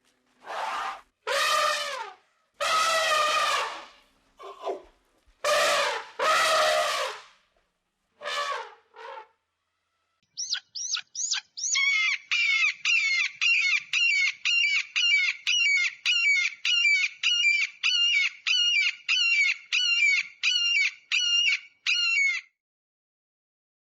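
Animal calls: a series of drawn-out, pitched cries with pauses between them, then a quick run of short, high repeated calls, about two a second, that stops shortly before the end.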